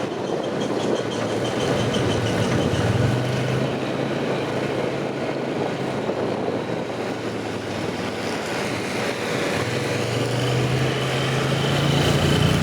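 A small engine running steadily under a continuous rushing noise. Its low hum grows stronger about three seconds in and again near ten seconds.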